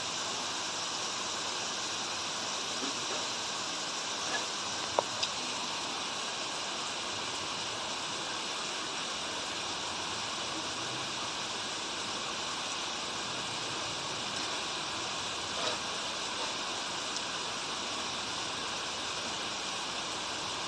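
Steady rain and running stream water, an even hiss with a few sharp single drops, two close together about five seconds in.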